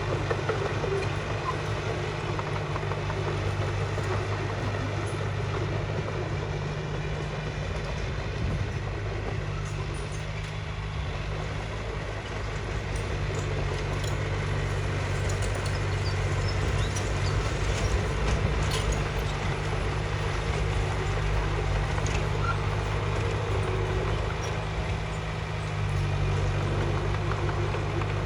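Bulldozer's diesel engine running steadily with a low hum, with a few faint clicks in the middle.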